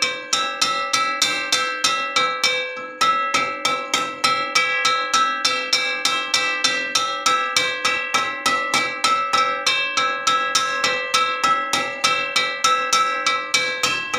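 Metal wok struck repeatedly, about four strikes a second. Each strike rings out and overlaps the next, with one short break about three seconds in.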